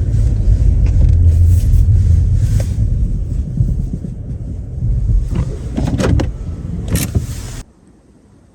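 Pickup truck driving on a snowy road, a loud, steady low rumble with a few knocks and rattles about six and seven seconds in. The sound cuts off suddenly near the end.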